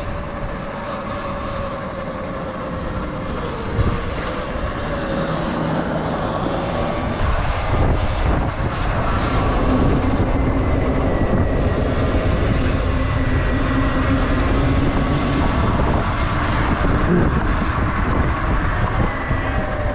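Sur Ron electric dirt bike on the move: wind rushing over the microphone, with the faint steady whine of the electric motor drifting slightly in pitch. It gets louder about eight seconds in as the bike picks up speed.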